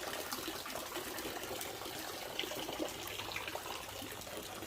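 Steady rain falling: an even hiss of water with faint scattered drips.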